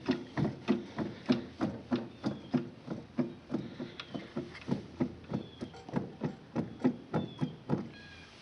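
Rhythmic metallic clunking, about three to four knocks a second, from a Gehl 4400 skid steer's front wheel being rocked back and forth on its loose roller bearing. The play is the sign of a failed wheel bearing. The knocking stops near the end.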